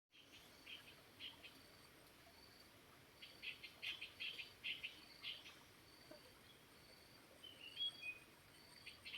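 Birds chirping in quick clusters of short, high notes, with a brief gliding whistle near the end, over a faint high insect trill and a soft steady hiss. The sound starts abruptly out of silence.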